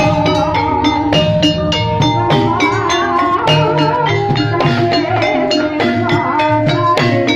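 Javanese gamelan music for an ebeg dance: struck bronze metallophones and gongs ring over a low drum on a steady beat of about two strokes a second.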